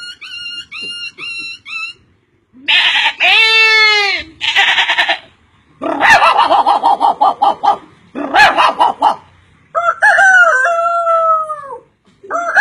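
A string of different animal calls, one after another with short gaps: a rooster's crow, a run of quick pulsing calls, and falling, bleat-like calls near the end.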